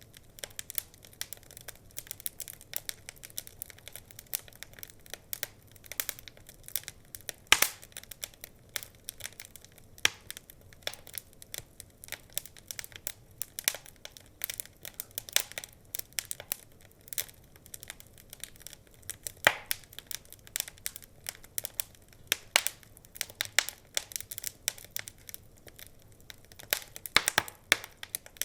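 Wood fire crackling, irregular sharp pops and snaps from burning logs, with a few louder pops.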